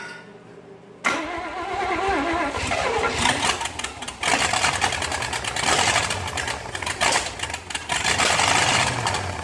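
A 1956 Chevrolet 265 small-block V8 starts up abruptly about a second in and runs loud, dipping briefly twice, while its ignition timing is being adjusted at the distributor.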